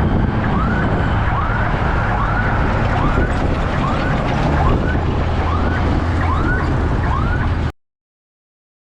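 A heavy vehicle engine rumbling steadily, with a short rising-and-falling chirp repeating roughly once a second over it; the sound cuts off abruptly near the end.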